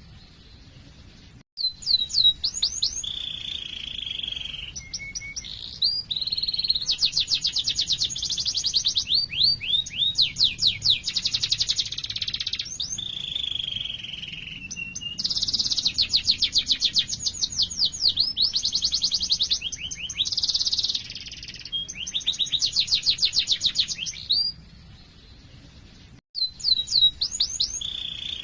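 Domestic canary singing a long, continuous song: runs of rapid rolling trills and fast chirps, rising and falling in pitch. There is a short pause about a second in and another near the end.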